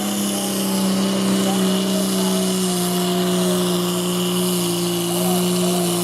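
Pulling tractor's large engine running hard under full load as it drags the sled down the track, a steady, loud note that drops slightly in pitch about three seconds in.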